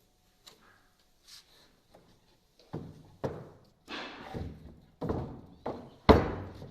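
Wooden boards knocking and thudding as they are handled: a few faint clicks, then about six irregular sharp knocks, the last the loudest.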